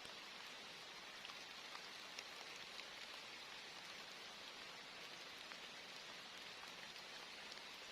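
Steady rain, a continuous hiss with scattered sharper ticks of single drops.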